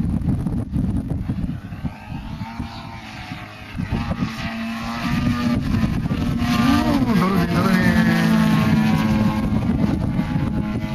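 50cc gasoline engine of a radio-controlled aerobatic plane droning in flight, over wind rumble on the microphone. About two-thirds of the way through, its tone swells and then drops to a lower pitch as the plane passes.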